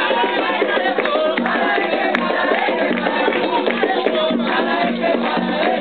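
A group of voices singing a ritual chant for Xangô, with hand percussion and a shaken rattle keeping a steady beat.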